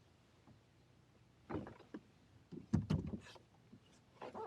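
Knocks and clunks of gear being handled against a kayak's hull: one short knock about a second and a half in, then a cluster of sharper knocks and low thuds near three seconds.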